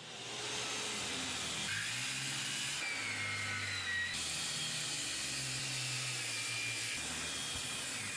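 Small bandsaw cutting through a piece of ash wood: a steady whirring noise with a high whine that slides up and down in pitch as the blade works through the cut.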